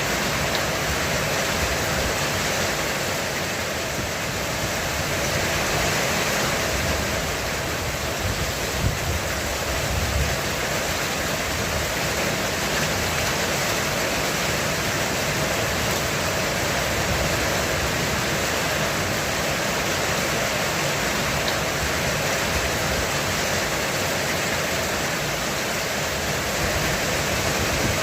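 Heavy rain falling steadily on a roof, a dense even hiss. About nine to ten seconds in there is a brief low rumble with a couple of thumps.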